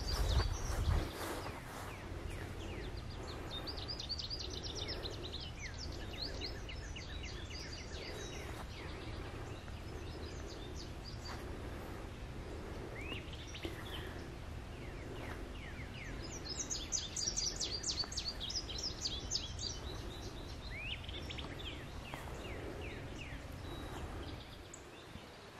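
Songbirds singing: repeated short, high whistled notes and trills from more than one bird, with a fast run of high notes about two-thirds of the way through. A steady low rumble lies underneath.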